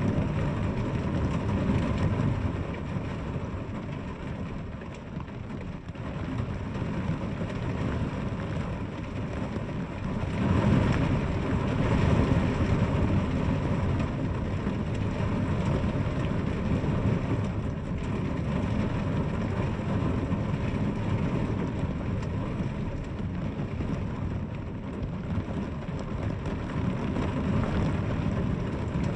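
Steady heavy rain falling, with a deep low rumble that swells for a few seconds about ten seconds in.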